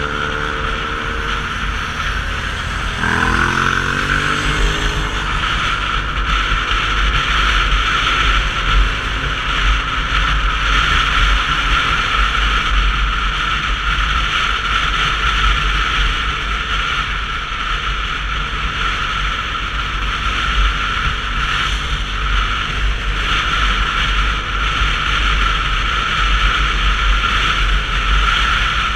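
Wind rushing over an action camera's microphone, with road noise, while a Sinnis Terrain 125cc motorcycle is ridden. The engine's note shows through at first and rises about three seconds in as the bike accelerates, then the steady wind noise covers it.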